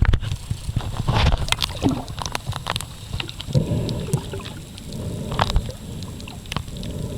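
Water sloshing and gurgling around a camera in the sea, over a steady low rumble, with scattered sharp clicks and knocks throughout.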